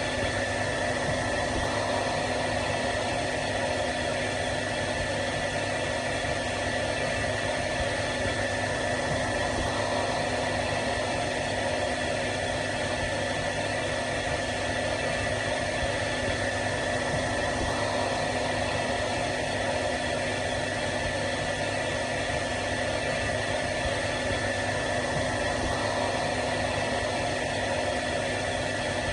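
Hair dryer running steadily: a constant blowing hiss with a steady motor hum.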